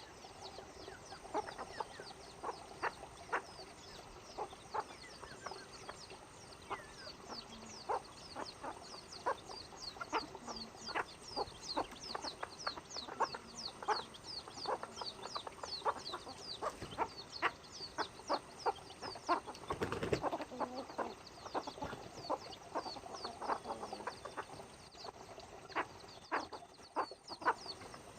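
Chickens clucking, over a continuous run of short, high, falling chirps. There is a brief louder noise about twenty seconds in.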